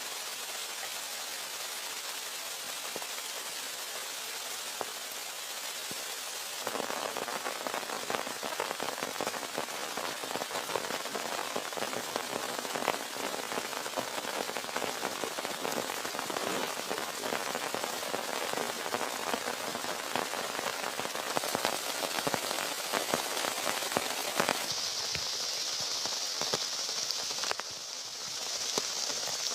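Heavy rain falling, with many separate drops pattering on a surface. It turns louder and denser about seven seconds in, and becomes a steadier hiss near the end.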